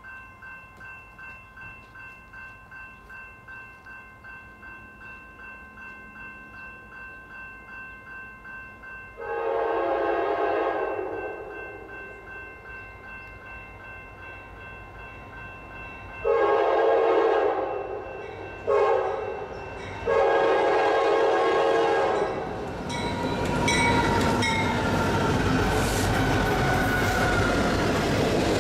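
Grade-crossing bell ringing steadily, then the lead locomotive's air horn sounding the long, long, short, long crossing signal. About 23 seconds in, the freight train arrives and rumbles past with the locomotive's diesel engine and wheels clattering over the rail joints.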